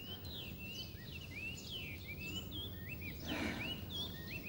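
Small birds chirping, many quick high chirps one after another, with a brief soft rush of noise about three seconds in.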